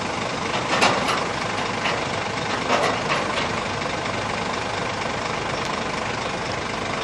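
Scania truck's diesel engine idling steadily, with a few brief sharper noises in the first three seconds.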